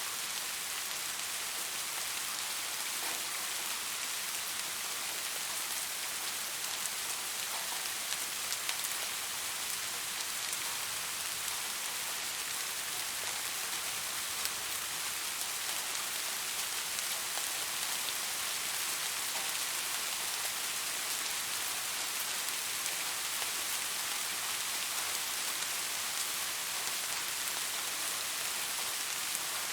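Steady rainfall: a constant, even hiss of rain with faint scattered drop ticks.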